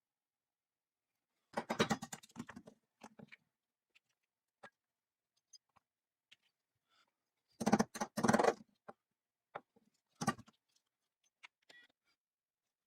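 Small hard parts clattering and scraping during hand restoration work, in three short bursts about two, eight and ten seconds in, with scattered single clicks between them.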